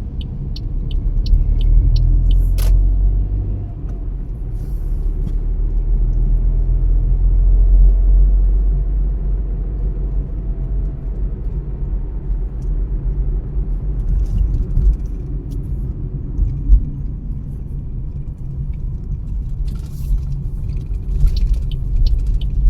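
Car driving, with a steady low road and engine rumble that swells and eases. A regular ticking runs for the first couple of seconds and ends in a sharp click, and scattered clicks come near the end.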